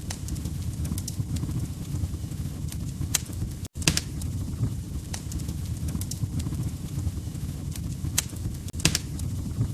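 Wood fire crackling: a steady low rumble of burning with sharp pops and snaps at irregular moments, a few of them louder. The sound cuts out for an instant just before four seconds in.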